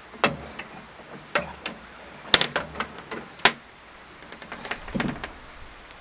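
A series of sharp clunks and knocks, roughly one a second, followed by a short rattling cluster of softer knocks near the end.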